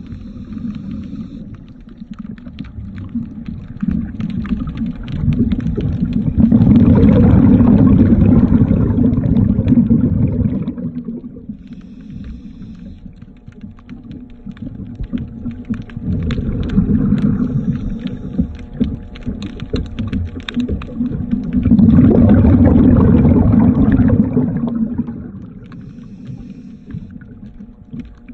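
Underwater, a diver's exhaled bubbles rumble in two long bursts, each lasting a few seconds, with quieter stretches of small clicks and taps between them.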